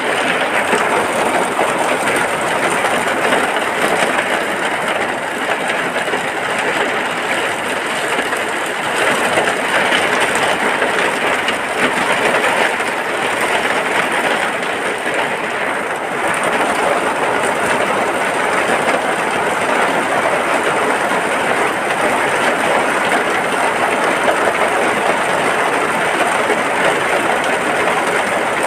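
Steady rain falling on a hut, heard from inside: an even hiss that does not let up.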